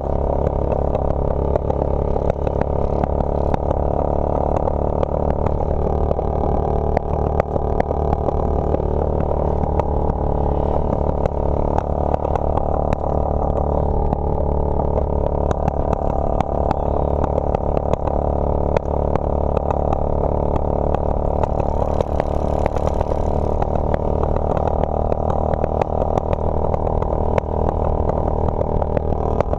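Motorcycle engine running steadily while riding, its pitch and loudness holding even, with a low rumble and frequent small crackles.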